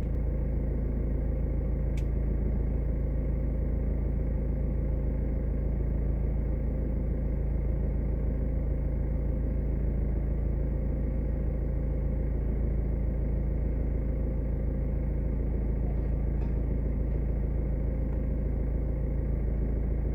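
A motor or engine running steadily with a constant low hum. There is a single sharp click about two seconds in.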